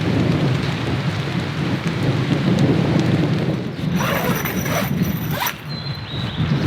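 Heavy rain falling with a deep, steady rumble of thunder. A short burst of crackling noise comes about four seconds in and ends after a second and a half.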